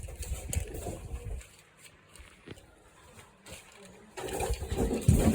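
Plastic LEGO Technic pieces being handled and rummaged through: irregular rustling and light knocks, quieter for a couple of seconds in the middle, then louder and busier from about four seconds in.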